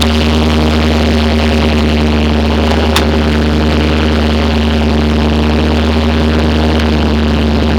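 Bobcat S150 skid steer's diesel engine running at a steady, unchanging speed, with one faint click about three seconds in.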